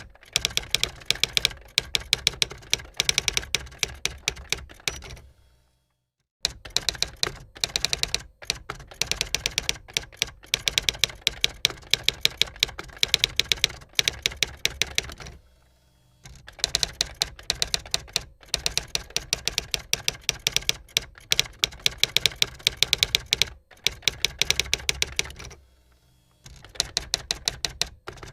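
Typewriter keys striking in quick runs of rapid clicks lasting a few seconds each, broken by several short pauses.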